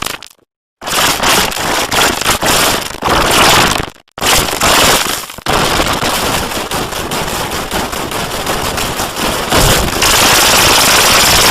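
Loud, heavily distorted crackling noise from an audio effect that mangles the soundtrack past recognition. It drops out briefly just after the start and again about four seconds in.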